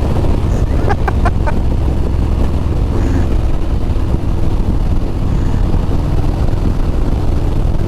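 Harley-Davidson Road Glide's V-twin engine running steadily at road speed, with wind rushing over the microphone.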